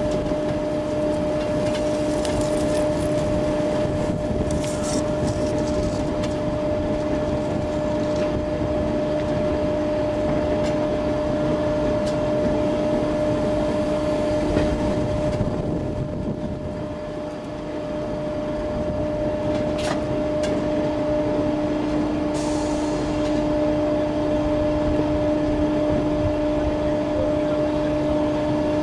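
Train heard from an open window of a 4-CEP slam-door unit running slowly: a steady rumble of wheels on rail under a constant two-note hum, with a few brief high squeaks and clicks.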